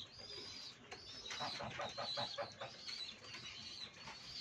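Pigeons in a loft: thin high squeaking from squabs begging, with a quick run of soft pulses in the middle, as the mother pigeon feeds them.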